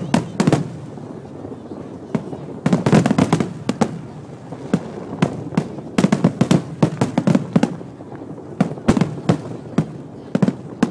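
Fireworks and firecrackers going off in rapid volleys of sharp cracks and bangs, with short lulls about a second in and again around eight seconds in.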